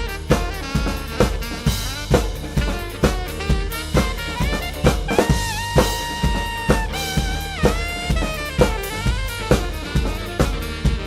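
Drum kit played to a backing track: kick, snare and cymbal strokes at a steady driving beat, under a synthesizer or guitar melody with held, bending notes.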